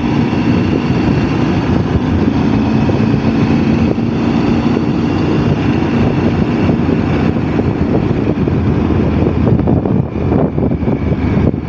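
Touring motorcycle engine running steadily at cruising speed, with rushing wind and road noise.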